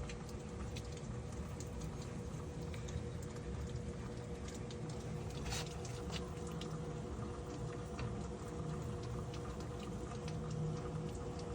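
Steady rain falling, with scattered drops tapping close by over a steady low hum.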